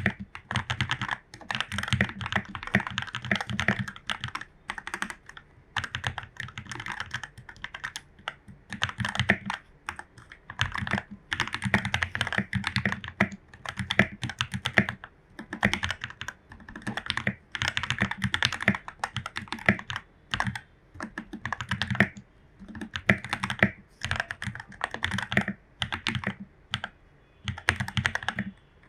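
Typing on a Royal Kludge RK84 mechanical keyboard with lubed Jwick Yellow linear switches, foam- and tape-modded: fast runs of keystrokes with a deep low thock, in bursts broken by short pauses.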